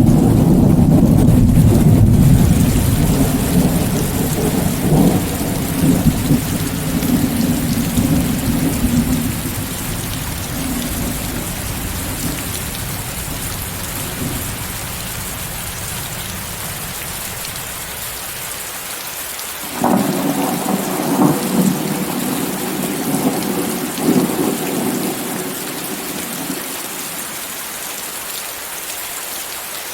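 Steady rainfall with rolling thunder, mixed with white noise. A rumble of thunder fades away over the first half, and another peal starts suddenly about two-thirds of the way in, crackling and then rolling off.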